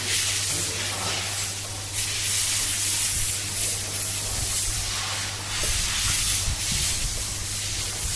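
A steady hiss that swells and fades every second or so, over a low steady hum.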